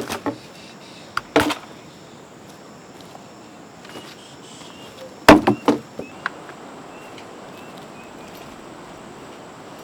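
Sharp knocks and clatters: a couple about a second and a half in, then a quick run of several about five seconds in, over a steady background hiss with faint high chirps.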